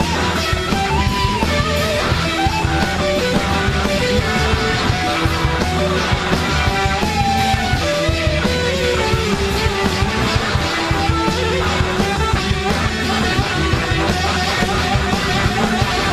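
Blues-rock band playing, with an electric guitar soloing in bent, sliding single notes over bass and drums.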